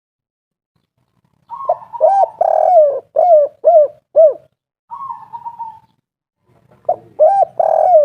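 Spotted dove (tekukur) singing its 'kuk 3' song: a drawn-out higher opening note followed by a quick run of short, arched coos, starting about a second and a half in. The phrase begins again about five seconds in.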